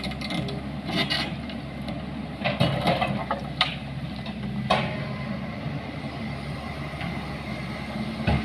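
An engine running steadily, with a few sharp metallic clanks and knocks in the first half.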